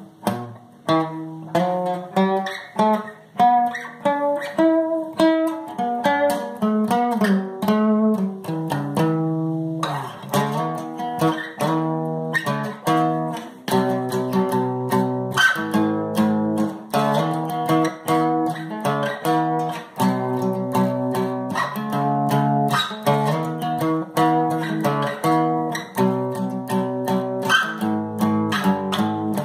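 Guitar playing a tune: picked melody notes mixed with strummed chords, in a steady rhythm.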